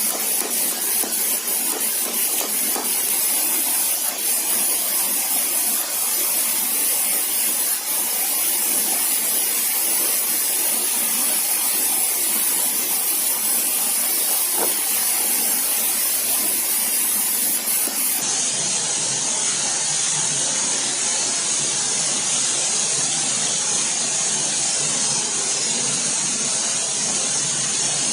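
Steady, even hiss of noise at an unchanging level, with a few faint clicks in the first seconds. About two-thirds of the way through there is an edit, after which the hiss sounds duller.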